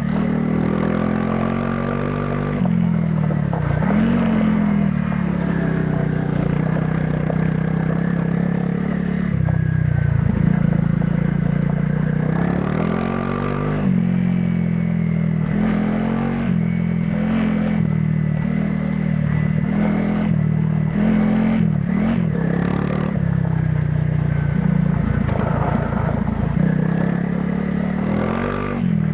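Honda CRF300 Rally's single-cylinder four-stroke engine through its stock exhaust, riding off-road. The revs rise and fall every few seconds as it pulls and shifts, with short clatter mixed in.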